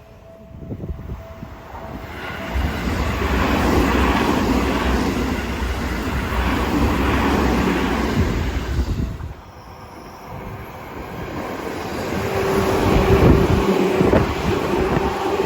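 Electric commuter train running past, its rumble and wheel noise rising about two seconds in and dropping away sharply about nine seconds in. The noise then builds again toward the end with a steady hum over it.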